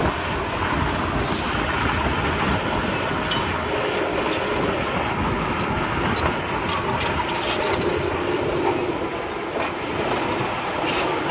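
Komatsu D31P crawler bulldozer working: its diesel engine runs steadily under the clatter, clanks and squeaks of its steel tracks.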